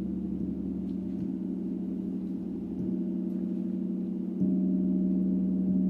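A deep, steady gong-like drone of several layered tones, swelling louder in a step about four and a half seconds in.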